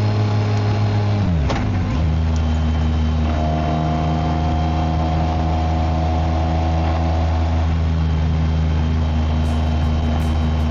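BMW K1600GT's inline-six engine and exhaust running steadily under way. About a second and a half in, the revs drop sharply and settle at a lower steady pitch, as on an upshift.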